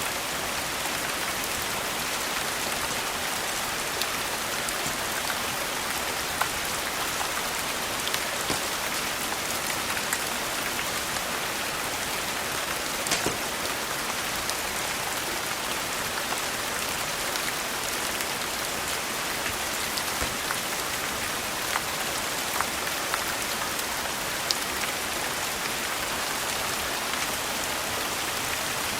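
Steady rain with occasional sharp crackles and pops from a wood fire.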